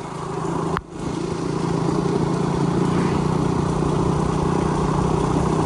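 Motorcycle engine running steadily while riding, under a steady rushing noise. The sound breaks off sharply for a moment about a second in, then carries on.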